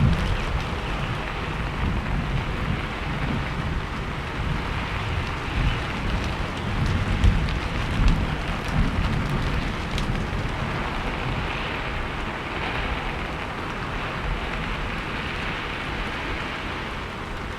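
Steady heavy rain falling, a dense hiss with scattered drop ticks, and a deep low rumble swelling and fading about halfway through.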